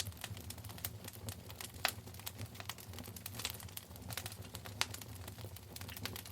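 Wood fire in a fireplace crackling: a steady run of small sharp pops and snaps, with a few louder pops about two, three and a half and five seconds in, over a low steady hum.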